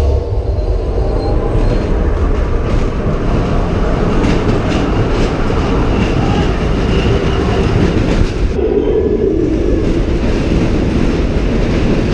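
Ride train rolling along its track: a steady rumble with wheel clatter and some faint wheel squeal.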